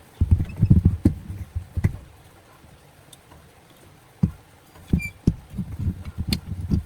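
Irregular low thumps and knocks, with a few sharp clicks, in two busy stretches: one near the start and one from about two-thirds of the way in.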